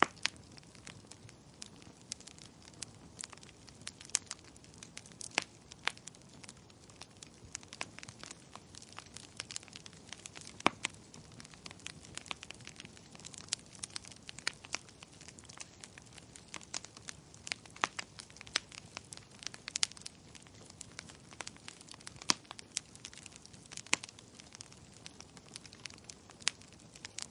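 Wood fire burning in a fireplace: irregular sharp crackles and pops, several a second, over a soft steady hiss of flame.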